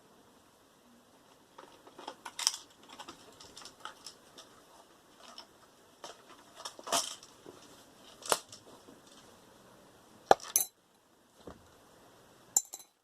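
Sharp metallic clicks and clinks of tools and loose metal parts being handled while a microwave oven is taken apart, with several louder knocks a few seconds apart.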